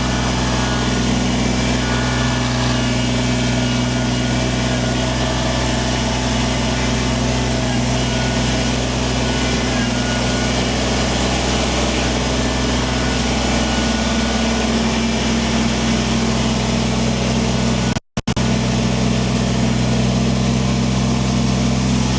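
Kubota tractor's diesel engine running steadily at an even speed. The sound cuts out completely for a split second near the end.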